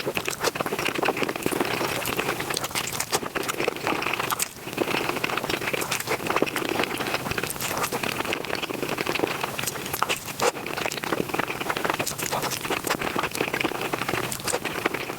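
Close-miked mukbang eating sounds sped up about five times: chewing, crunching and slurping run together into a dense, fast crackle of small clicks, with a brief lull about four and a half seconds in.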